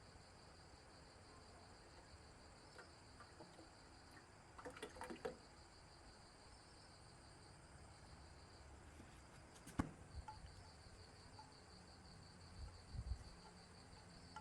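Quiet background with the faint, steady chirring of insects. A few light clicks and knocks are heard, the sharpest a little before ten seconds in, with soft low thumps near the end.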